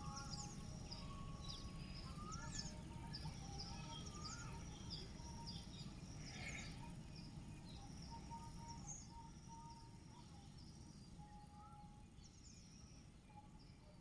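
Small birds chirping over and over in short, high calls, with a few lower whistled notes, above a steady low background rumble.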